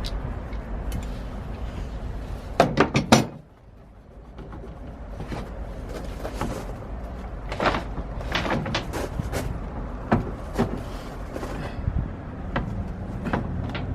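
Sash clamps being undone and taken off a freshly glued wooden tiller: irregular clicks and clunks of metal and wood, with a quick run of knocks about three seconds in, over a low rumble.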